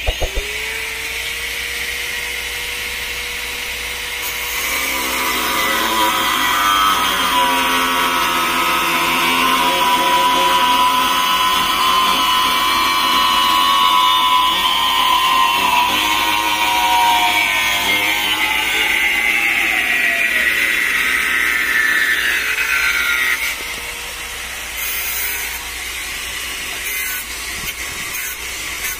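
Electric power tool cutting into dense hardwood. The motor runs free, then bites into the wood for about 18 seconds with its pitch sagging under the load, and runs free again when the cut stops.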